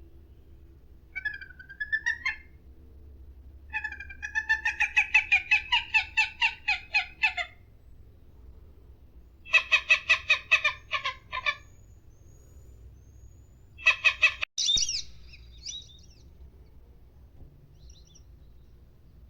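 A bird calling in four bouts of quick, repeated notes, about five a second, with pauses of a second or two between bouts. After a brief break near the end comes a short, higher call.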